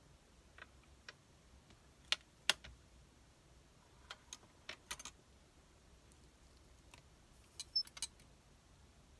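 Sparse, irregular light clicks and taps of small hard objects being handled, with the two loudest about two seconds in and a quick cluster near the end.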